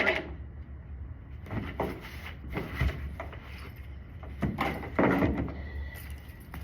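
Toy pieces being handled and set into a small plastic toy cooler: about half a dozen short knocks and clatters, the loudest near the start and about five seconds in.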